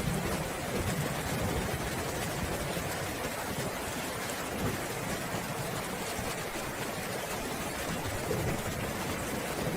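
Steady rain falling, with a low rumble of distant thunder near the start.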